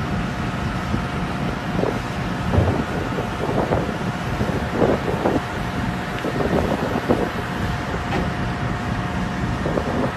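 Large haul truck's diesel engine running steadily with a thin constant whine, scattered irregular knocks and clatters, and wind buffeting the microphone.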